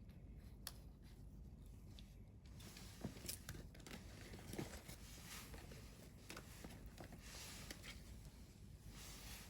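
Wood campfire burning faintly, with scattered crackles and sharp pops that come thicker about midway.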